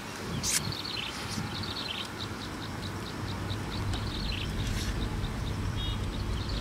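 Outdoor ambience: a bird chirping over and over, short high chirps about three a second, over a steady low rumble that grows a little louder about halfway through. There is one sharp click about half a second in.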